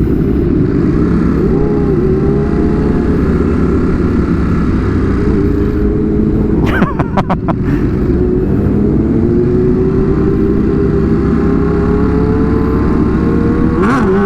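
Sportbike engines running loud, their pitch slowly rising and falling, over a heavy low rumble. A quick run of sharp pops or clicks about seven seconds in.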